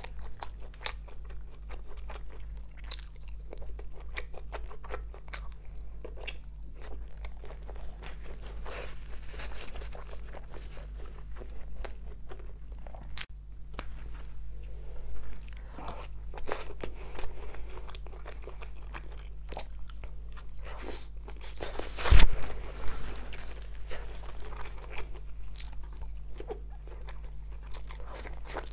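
Close-up eating sounds: biting and chewing sauced, grilled meat and sausage skewers, a steady stream of irregular sharp, wet clicks, with one much louder burst about three-quarters of the way through.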